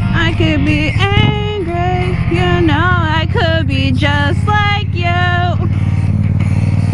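A pop song with a lead singer's voice playing loudly through a handlebar-mounted KSpeaker S7 Bluetooth speaker, over the steady idle of a Yamaha FZ-07's parallel-twin engine. The singing stops a little before the end, leaving the engine idling.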